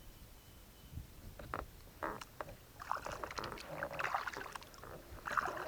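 Kayak paddle strokes splashing and dripping in lake water, starting about two seconds in and coming in irregular clusters.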